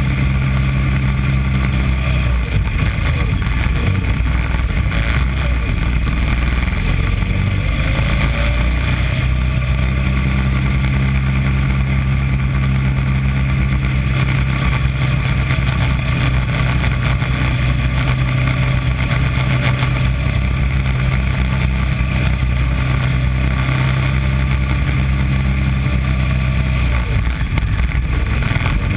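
A mini Corvette race car's small engine running under load at a steady speed, heard close up from the car's body. The engine note briefly eases off about two seconds in, again around eight seconds, and near the end.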